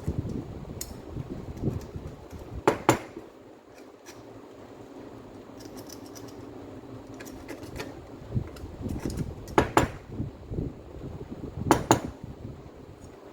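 Metal parts and tools being handled and set down, with sharp metallic clinks about three seconds in, near ten seconds and near twelve seconds, over softer handling noise.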